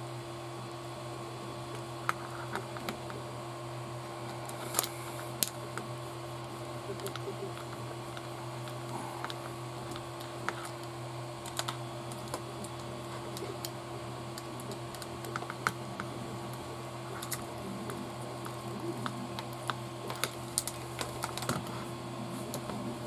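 Small, irregular clicks and taps of plastic RC kit parts being handled and fitted by hand, a few loud ones now and then and more frequent near the end, over a steady low hum.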